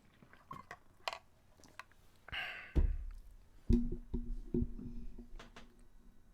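Light scattered clicks, then a few sharply struck notes at one pitch ringing on for about a second and a half.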